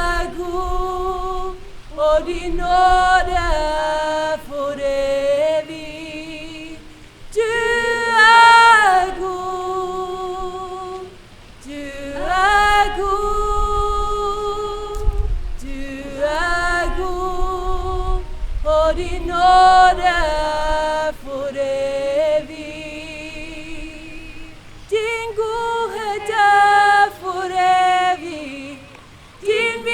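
A voice singing a Norwegian worship song in long, drawn-out phrases with vibrato and short breaths between them.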